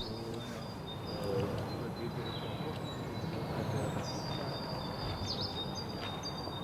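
Outdoor ambience: birds chirping and whistling in high, thin notes over a steady low background rumble.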